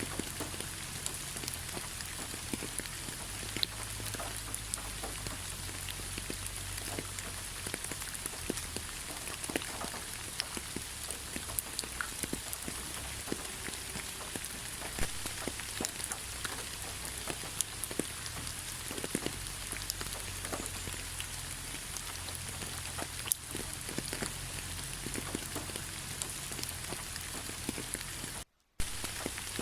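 Steady rain falling, with many separate drops tapping sharply through the even hiss. The sound cuts out to silence for a split second near the end.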